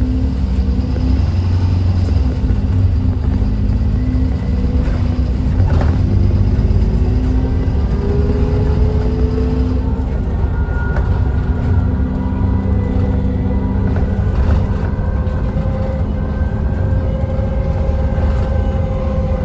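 Dennis Trident 2 Enviro400 double-decker bus running under way, its engine note steady, with a whine that climbs slowly in pitch several times as the bus gathers speed.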